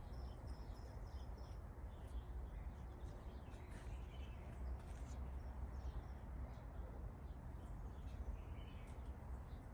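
Small birds chirping: a quick run of about six short high chirps in the first second and a half, then scattered faint chirps, over a steady low outdoor rumble.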